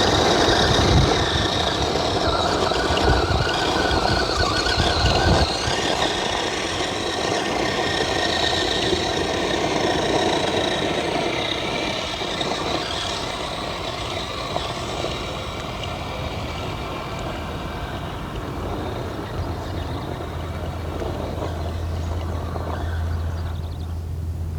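A 1/10-scale Redcat Gen 8 RC crawler truck driving on its brushless motor, the motor and drivetrain whining, louder in the first half and easing later. A low steady hum comes in near the end.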